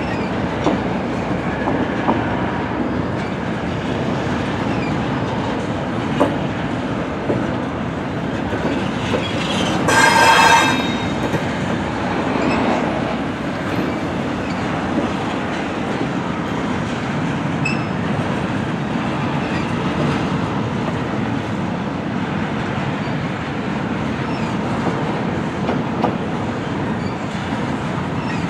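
Double-stack intermodal container train rolling past: a steady rumble and clatter of wheels on the rails with an occasional knock. About ten seconds in, a brief, loud, high wheel squeal rings out for about a second.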